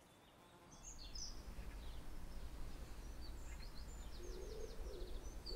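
Faint outdoor ambience: small birds chirping in quick, high calls scattered throughout, over a steady low background noise that comes in after a moment of silence at the start.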